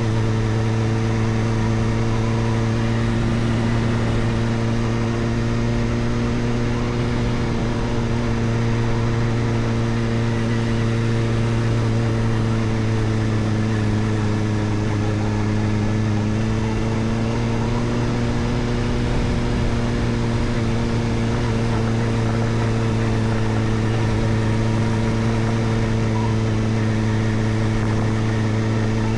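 Kawasaki Ninja ZX-4RR's 399 cc inline-four engine running at steady, moderate revs through an Arrow Indy Race Evo titanium exhaust with the dB killer fitted. The engine note holds almost constant, with only slight rises and falls in pitch.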